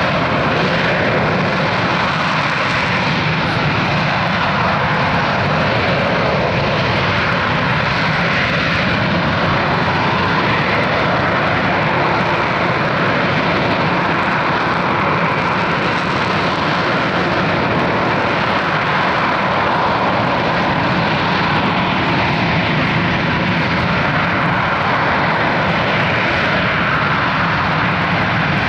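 Harrier jump jet's Rolls-Royce Pegasus turbofan running loud and steady, with no rise or fall in pitch, as in a hover.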